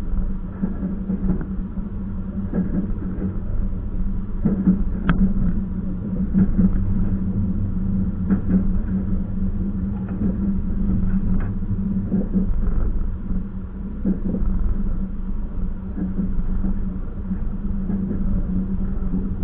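Train running along the track: a steady rumble with a constant hum, and irregular knocks and clicks.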